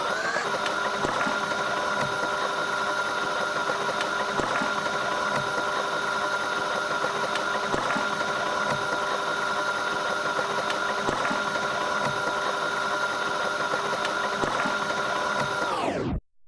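Washing machine running a spin cycle: the motor and drum hold a steady high whine at a settled speed, with a few faint knocks, then cut off suddenly near the end.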